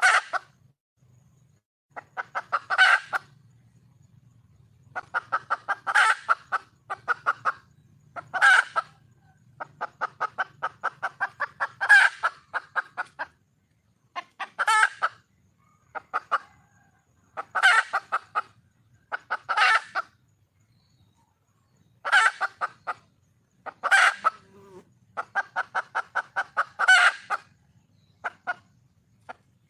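Red junglefowl hen calling for a male: runs of quick clucks, each run ending in a louder call, repeated about every two to three seconds.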